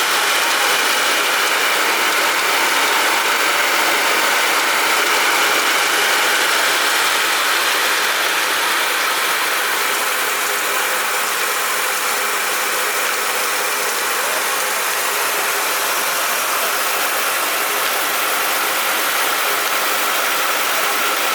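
6N2022-9FC21R electric mini rice mill running steadily: a loud, even mechanical whirring with a faint high hum over it.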